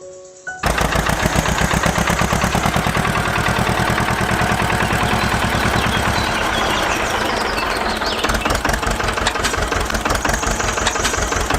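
An engine running with a fast, even chugging beat. It cuts in abruptly just after the start and stops abruptly at the end.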